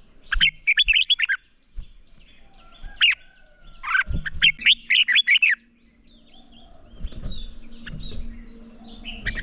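Red-whiskered bulbul singing its fast, chirping song in three short bursts of rapid sweeping notes, the kind of spirited 'fighting' song bird keepers use to stir other bulbuls to sing. A low rumble and faint hum sit under the second half.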